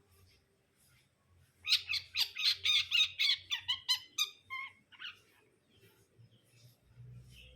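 Long-tailed shrike (cendet) singing: a fast run of short notes, about six a second, lasting roughly two and a half seconds, followed by a few scattered single notes.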